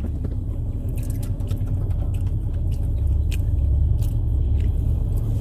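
Steady low rumble inside a car cabin from the idling engine and running heater, with a few short clicks of someone chewing food.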